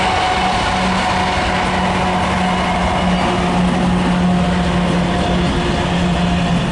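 Train passing close by: a loud, steady rumble and rattle of wheels on rail, with a low drone underneath that holds without a break.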